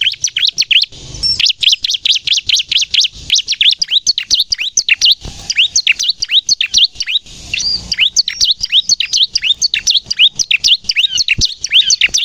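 Bar-winged prinia (ciblek) singing its loud, rapid-fire 'nembak' song: a fast string of short, sharp chirps, about six a second, broken by two brief pauses.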